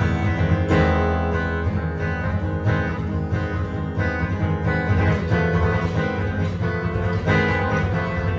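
Jazz guitar improvising: a continuous flow of plucked notes and strummed chords, with a strong bass register.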